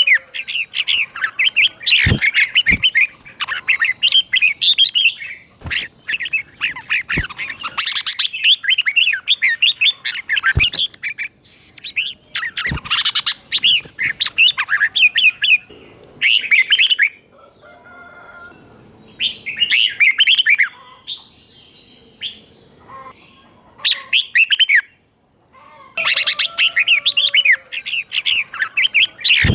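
Red-whiskered bulbul singing in bursts of quick warbling notes, phrase after phrase, with short pauses between them and a longer, quieter gap a little past the middle. A few sharp clicks sound in the first half.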